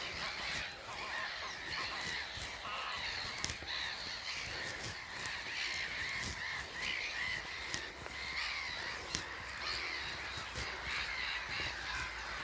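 A breeding colony of black-headed gulls calling continuously, with many harsh cries overlapping into one steady din.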